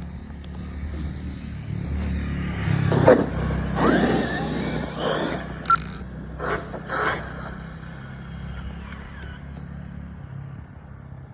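A motorcycle passing on the street, its engine sound swelling and then fading away. A few short scraping knocks sound around the middle.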